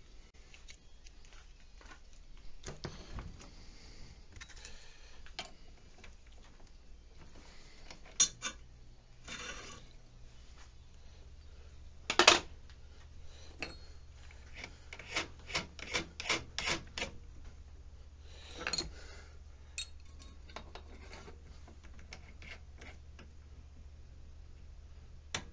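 Metal shop work being handled: scattered sharp clicks and knocks with short bouts of scraping and rubbing. A low steady motor hum sets in about eleven seconds in, as a large greased drill bit is readied to bore through a steel plate.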